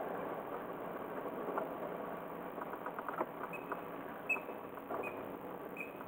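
Muffled cabin noise of a car rolling slowly, with scattered clicks and short high squeaks repeating every second or so in the second half.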